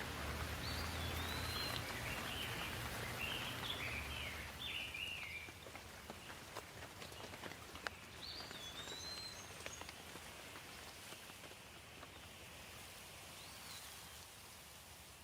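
Steady rain with scattered individual drips, easing a little after about five seconds. A small bird chirps in a quick run of short calls over the first few seconds, and again briefly later.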